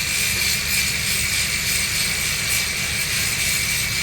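Welding arc on a steel pipe joint running steadily: an even hiss and crackle over a low hum.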